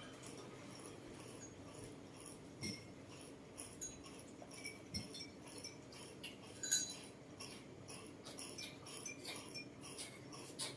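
Faint, scattered clinks and light taps of dishes and cutlery, a few a little louder than the rest.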